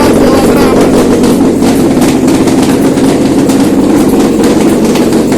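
Toyota 2AR-FE 2.5-litre inline-four petrol engine running steadily on a test stand.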